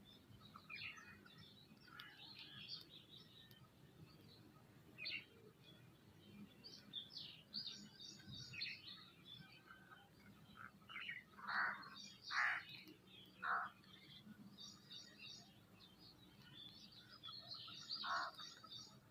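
Several birds chirping and calling at once, with a few louder, lower calls standing out around the middle and again near the end.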